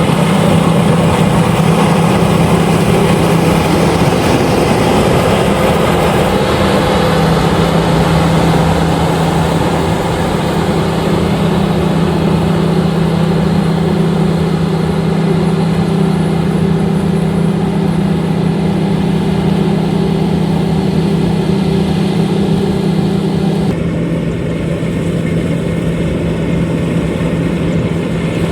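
LOVOL RG130EVO rice combine harvester running steadily, its engine hum held constant under a dense mechanical hiss. Near the end, the higher hiss drops away and the engine note shifts slightly.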